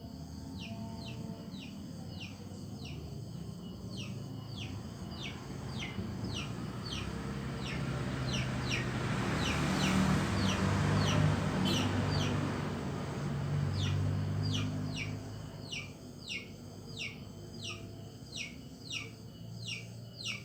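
A bird chirping over and over, short falling chirps at two or three a second, over a noisy wash that swells to its loudest about halfway through and then fades.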